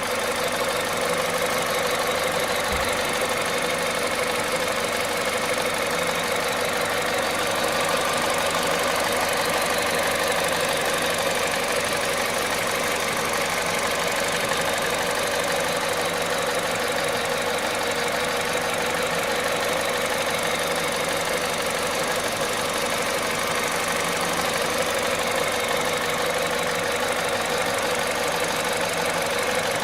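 1.6 VTi 120 four-cylinder petrol engine idling from a cold start, a steady, unchanging mechanical noise; the engine has covered about 98,500 km.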